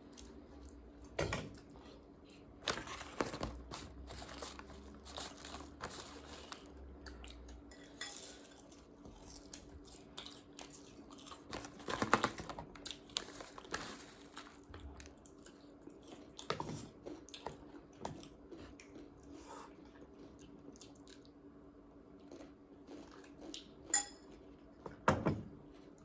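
Eating utensils clinking and knocking against dishes now and then, irregularly, with chewing and crunching of food in between.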